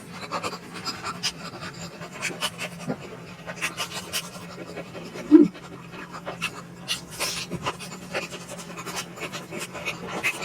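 Close-up eating sounds of a person chewing momos (dumplings): irregular wet smacks and clicks of the mouth, with breathing, and one louder thud about halfway through.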